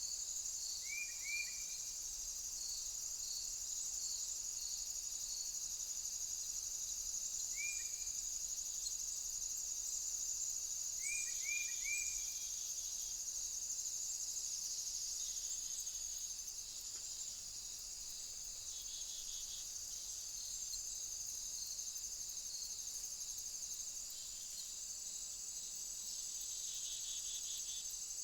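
Crickets and other insects stridulating in a steady high-pitched chorus, with a regular pulsing chirp of about two a second in the first few seconds. A few short bird call notes come about a second in, around eight seconds, and in a quick run of three near twelve seconds.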